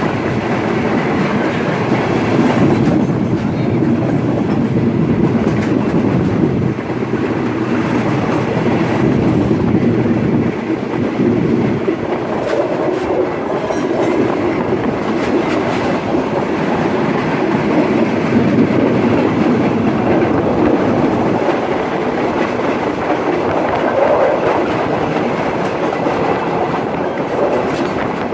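Passenger express train running along the line: a steady, loud rumble of wheels on rails with the clickety-clack of rail joints.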